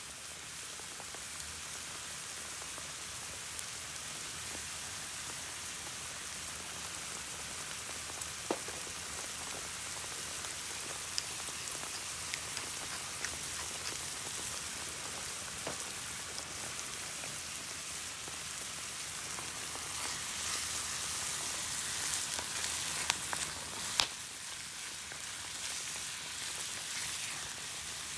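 Food sizzling in a pan over a campfire: a steady hiss with scattered sharp pops and crackles.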